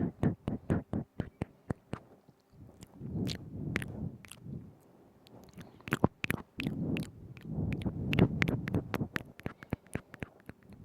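Close-miked ASMR mouth sounds: quick runs of wet tongue and lip clicks, with two stretches of softer, denser wet mouth noise, one a few seconds in and one near the end.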